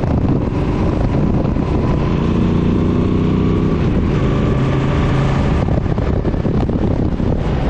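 Suzuki Boulevard M50's 805 cc V-twin engine running under way, its note shifting in pitch about halfway through, with wind noise on the microphone.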